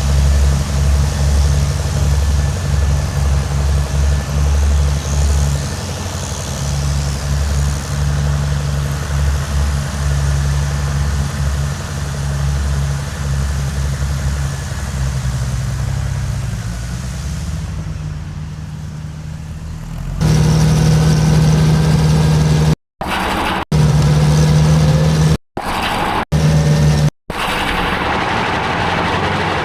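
Engine running steadily with a low, pulsing note. About two-thirds of the way through the sound changes, then cuts out abruptly to silence four times in short gaps near the end.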